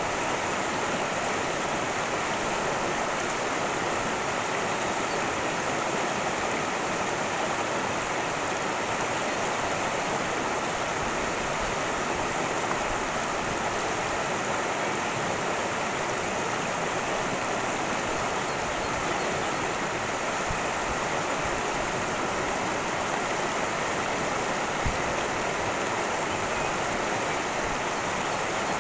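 Cascading creek: water rushing steadily over rocks. There is one brief thump near the end.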